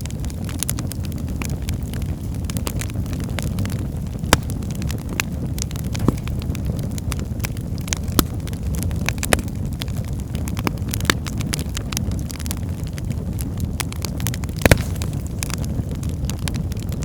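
Wood fire burning in a fireplace: a steady low rumble of flames with frequent sharp crackles and pops, a few louder snaps such as one near the end.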